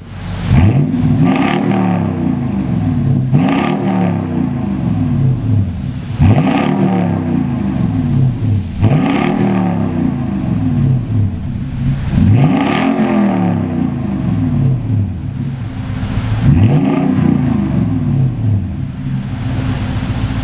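2011 Toyota Tundra 5.7L V8 through stainless true dual exhaust with an X-pipe and Carven R-series mufflers, idling and being free-revved about seven times, each quick rev dropping back to idle.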